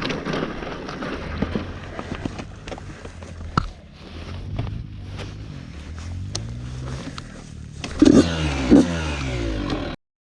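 Yamaha YZ85 two-stroke dirt bike being bump-started while rolling downhill: scraping and clicking at first, then the engine catches about four seconds in and runs up in pitch, with two sharp revs near the end before the sound cuts off suddenly.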